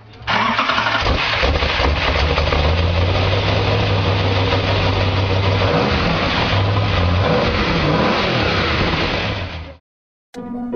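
Car engine running loud and revving, its pitch rising and falling a few times near the end; it starts abruptly and cuts off suddenly shortly before the end.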